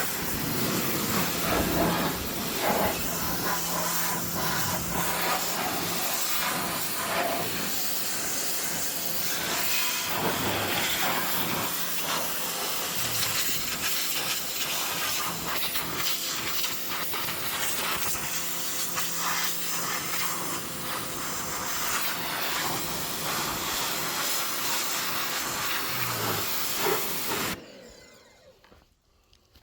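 Steady hissing spray of a water jet washing down a motorcycle, cutting off sharply near the end.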